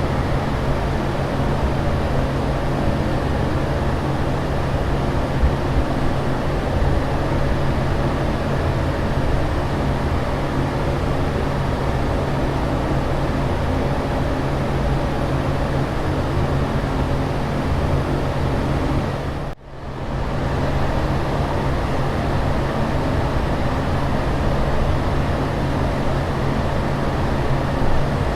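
Steady aircraft cabin ambience: an even rushing noise with a constant low hum and rumble underneath. About twenty seconds in it drops away for a moment and swells back up.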